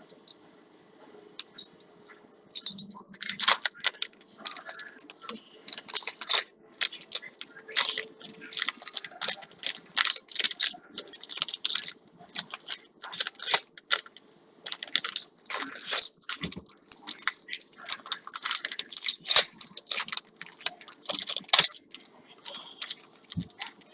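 Hands handling and unwrapping packaging: an irregular run of crinkling, rustling and small clicks and taps.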